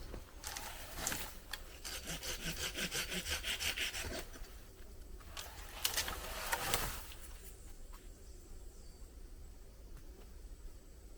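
Hand saw cutting wood in a quick run of even back-and-forth strokes, then a louder rasping stretch about six seconds in before it stops.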